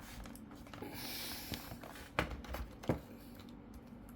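Plastic laptop parts being handled: a short sliding rustle, then two sharp plastic clicks.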